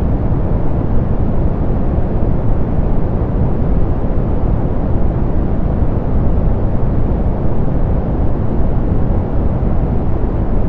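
Steady soft pink noise: an even, unchanging hiss weighted toward the lows, with the highs rolled off.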